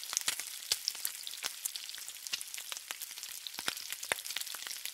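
Food frying on a hot flat-top griddle: a steady sizzling hiss with many small sharp pops and crackles.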